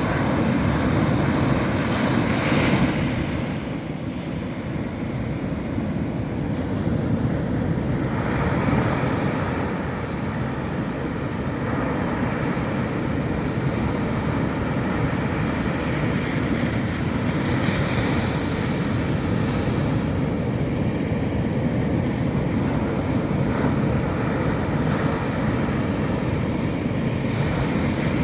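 Ocean surf breaking and washing up a beach in a continuous rush, swelling louder twice early on as waves break, with wind buffeting the microphone.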